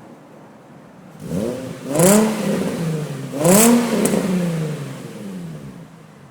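2005 Infiniti G35 coupe's 3.5-litre V6 through a Magnaflow cat-back exhaust, blipped twice from idle. Each rev climbs quickly and falls back slowly to idle.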